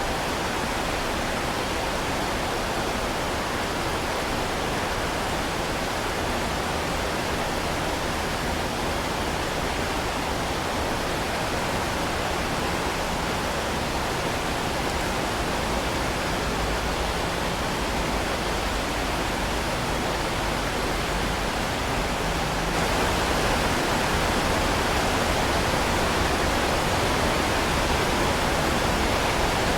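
Heavy rain falling as a dense, steady hiss with no separate drops or thunder, growing slightly louder about 23 seconds in.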